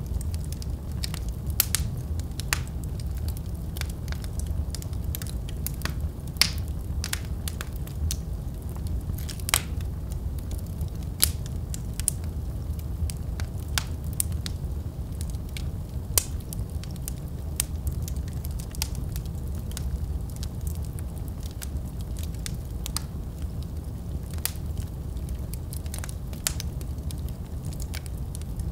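Wood fire burning in a fireplace: a steady low rumble of flames with irregular sharp crackles and occasional louder pops.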